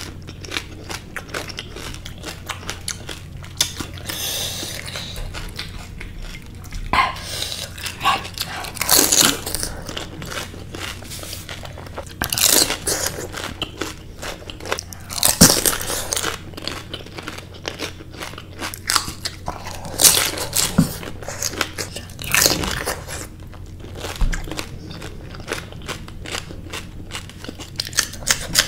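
A person chewing pani puri: crisp fried puri shells crunching and crackling in the mouth, with louder crunches every few seconds.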